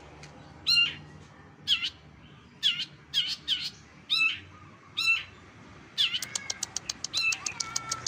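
Bird calls: short pitched notes that bend in pitch, about one a second, with a quick cluster near the middle. About six seconds in, they give way to a fast run of ticks, around eight a second, over a held whistle.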